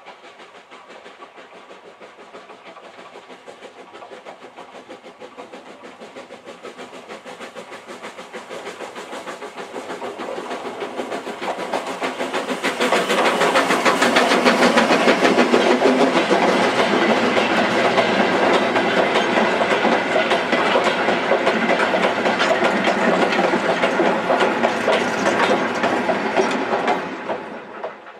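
A locomotive and a train of wooden coal wagons approach, growing steadily louder, then pass close by with the wagons rattling and clattering over the rail joints. The sound cuts off near the end.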